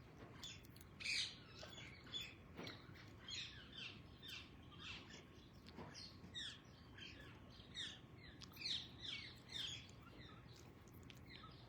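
A flock of parrots calling faintly: many short, downward-sweeping calls in quick succession, dying away near the end.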